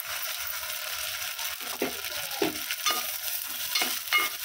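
Soaked broken wheat (daliya) sizzling as it drops into hot ghee in an aluminium pot. From about halfway a steel ladle stirs it, scraping the pot with a few short metallic clinks.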